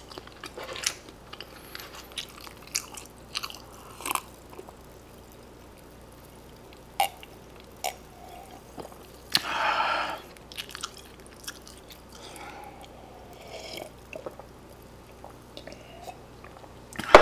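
A man chewing food close to the microphone, with wet mouth clicks and lip smacks, then drinking from a cup, with a louder sip about nine seconds in and quiet swallows after.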